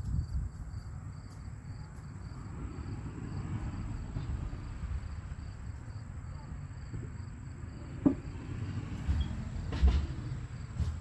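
Insects chirping in a steady, evenly pulsing high trill over low rumbling noise, with two sharp knocks about eight and ten seconds in.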